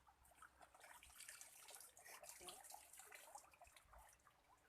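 Faint water trickling and dripping.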